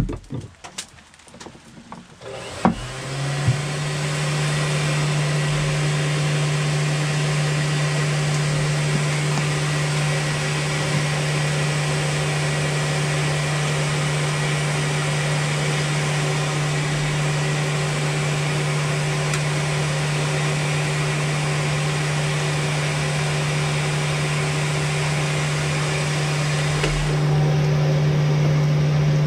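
A few clicks and knocks, then an electric motor starts about two and a half seconds in and runs steadily with an even whir and hum, a little louder near the end.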